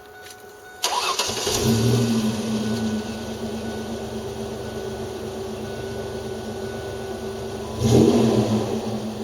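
1999 Ford Ranger's 3.0-litre V6 starting through a Magnaflow muffler and dual exhaust: it fires about a second in, runs loudest for a second or two, then settles to a steady idle. Near the end a brief throttle blip rises and drops back to idle.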